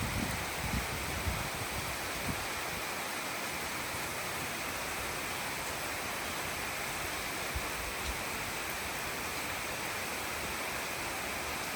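Steady rainfall, an even hiss, with a few low thumps in the first couple of seconds.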